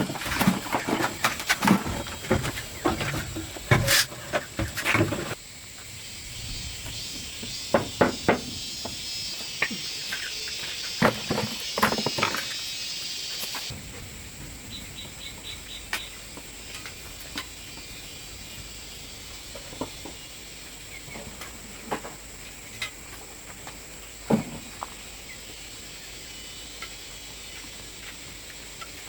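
A series of knocks and clatters, rapid and dense for about the first five seconds, then scattered single knocks and ticks, over a steady high insect trill.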